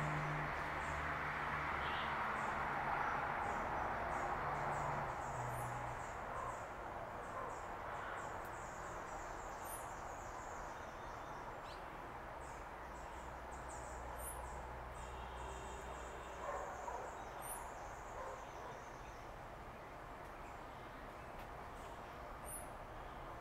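Faint, high, short bird chirps and calls repeating over a steady outdoor hiss. A low hum fades out over the first few seconds.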